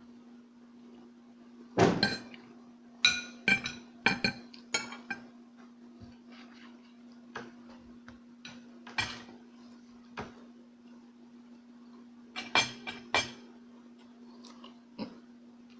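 Spoon and fork clinking against a plate during a meal, a series of sharp clinks with a brief ring, in two clusters near the start and about three-quarters through, over a steady low hum.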